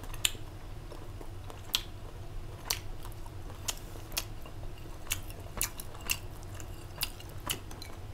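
A person chewing food close to a clip-on microphone: a string of sharp, irregular mouth clicks and crunches, about one every half second to a second, over a low steady hum.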